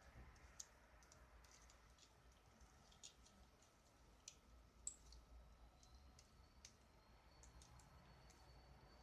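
Near silence broken by faint, irregular small clicks, with a faint thin high whine coming in about six seconds in.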